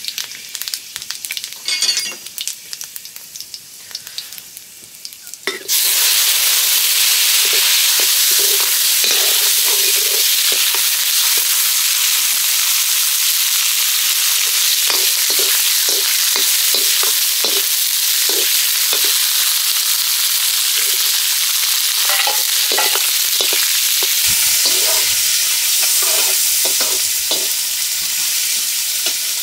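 Food hitting hot oil in a pan, setting off a loud sizzle about five and a half seconds in, stirred with short scraping knocks. Before that, quieter scraping and clicks; near the end the sizzle eases a little while the knocking grows heavier.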